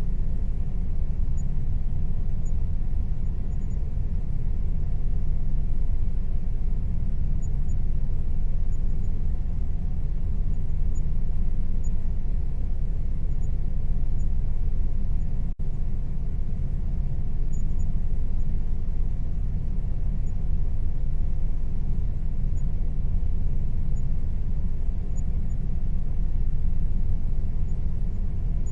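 Air conditioner running steadily with a low, even rumble and a faint steady hum, cut by a split-second dropout about halfway through.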